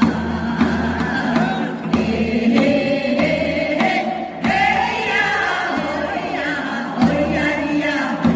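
A group of voices singing together to a musical accompaniment with a steady low beat.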